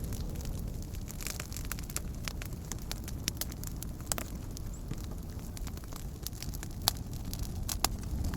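Wood campfire crackling, with irregular sharp snaps and pops over a low steady rumble; a couple of louder pops near the end.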